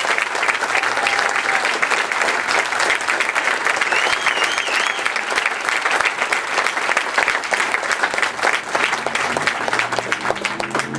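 Crowd applauding steadily, dense many-handed clapping that thins slightly near the end.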